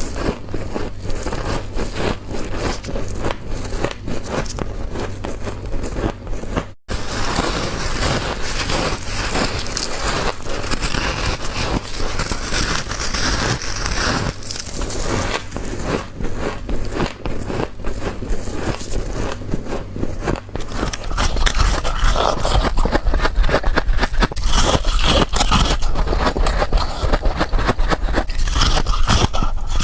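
Someone biting and chewing frost close to the microphone: dense crunching and crackling. There is a brief dropout about seven seconds in, and the crunching gets louder about two-thirds of the way through.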